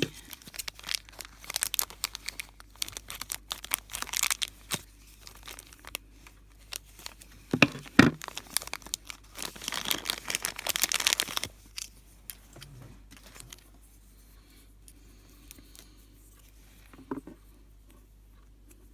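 Crinkly plastic blind-bag packaging being handled, crumpled and torn open by hand, with two sharp clicks about eight seconds in. The crinkling dies down to faint handling noise after about twelve seconds.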